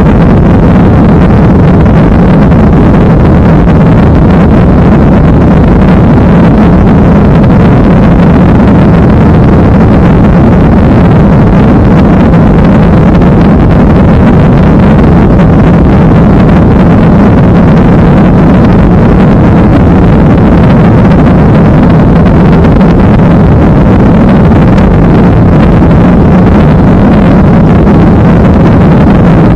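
Jet airliner engine and airflow noise, steady and loud, a rushing sound over a low drone that holds at one pitch.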